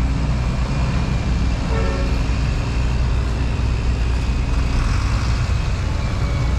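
Steady road-traffic rumble of passing cars and trucks, with a short vehicle horn toot about two seconds in.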